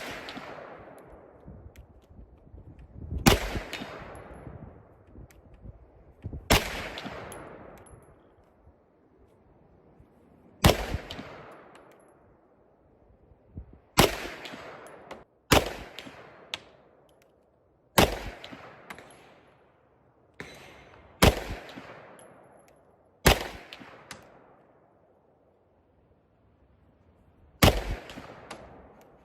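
Pistol fired one shot at a time, about ten shots spaced one and a half to four seconds apart, each with a long echo that fades away.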